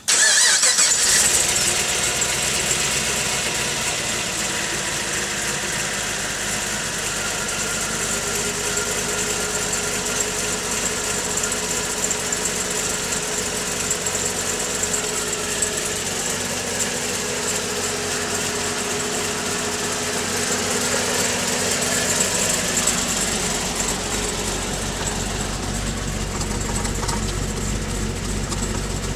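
Supercharged Pontiac G8 GT V8 with an aftermarket TSP camshaft and TVS1900 Magnacharger roots blower, starting cold right at the start and settling into a steady idle with a light cam lope through the stock exhaust manifolds and catback. A deeper low rumble builds in the last few seconds.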